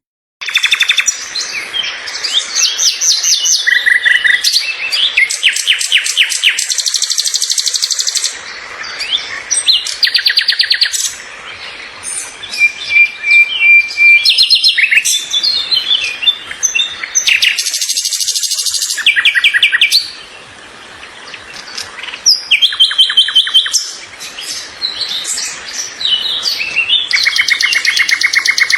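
Several small birds chirping and calling loudly together, a dense jumble of high chirps and fast rattling trills that pause and start again.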